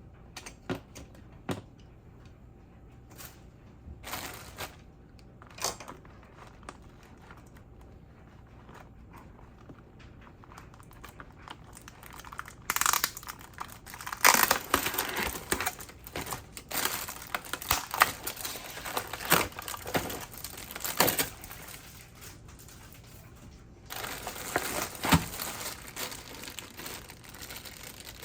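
Plastic packaging crinkling and crackling as it is handled, in two long stretches in the second half, after a run of scattered light clicks and knocks.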